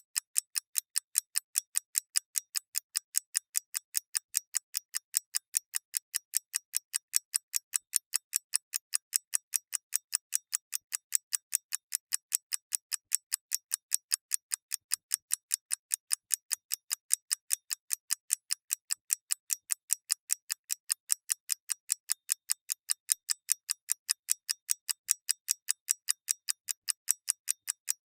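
Mechanical clock ticking steadily: light, high, evenly spaced ticks, several a second, with no other sound.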